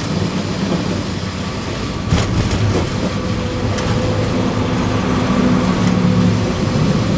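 A motor vehicle's engine running steadily with a low hum, with a couple of sharp knocks about two to three seconds in.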